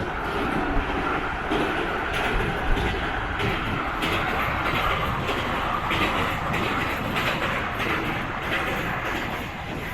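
Moving passenger train heard from on board: a steady rushing noise of the running coach, with the wheels clattering irregularly over the rail joints.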